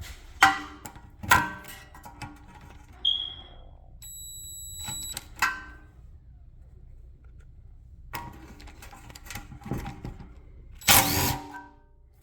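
Metal hand tools clinking and clanking: a handful of sharp metallic knocks that ring on briefly, as sockets and wrenches are handled while 10 mm bolts are worked loose on a Honda rear hub backing plate. A short, steady high tone sounds for about a second, some four seconds in.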